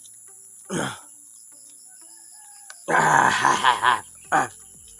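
A rooster crowing once, for about a second, from about three seconds in, ending on a short extra note. A brief falling cry comes about a second in.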